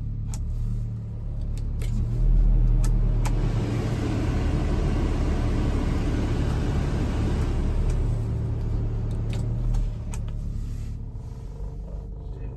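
Subaru Sambar kei truck's small 658 cc four-cylinder engine running, growing louder about two seconds in and easing off again near the end, with a few light clicks.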